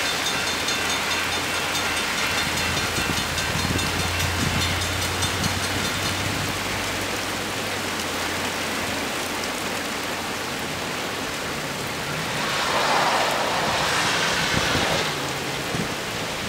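Steady heavy rain, with a railroad crossing bell ringing over it in the first few seconds as the crossing gates come down. About twelve seconds in, a vehicle swishes past on the wet road.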